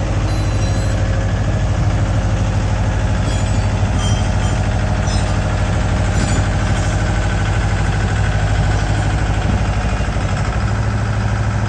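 Diesel engine of a Mahindra tractor fitted with a mini loader, running steadily with a deep, even hum. A few short high-pitched ticks come in the middle.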